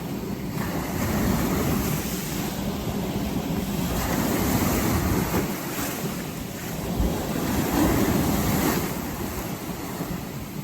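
Sea waves breaking and washing up a beach, the surf swelling and easing in about three surges a few seconds apart over a steady low rumble.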